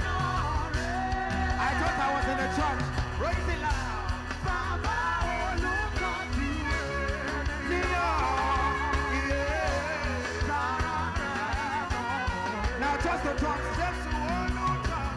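Live worship music: a band with drums and bass plays while voices sing a wavering, ad-lib melody over it.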